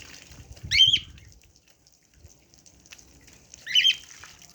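A bird calling twice, each call a short upward-sweeping chirp, about three seconds apart.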